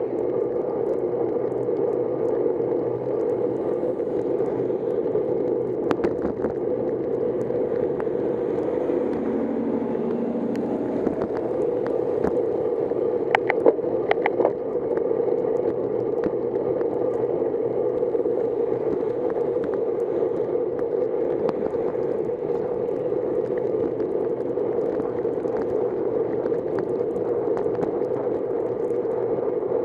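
Steady wind and tyre noise of a bicycle being ridden, with a sharp click about six seconds in and a quick cluster of clicks around the middle.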